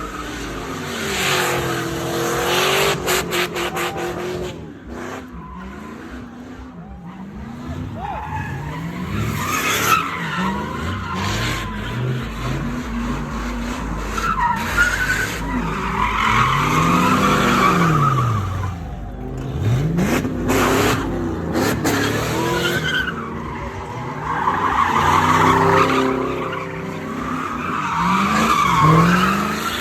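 Car engine revving up and down over and over, with tires squealing and screeching in long stretches, typical of burnouts and donuts. The squeal comes in waves, loudest about halfway through and again near the end.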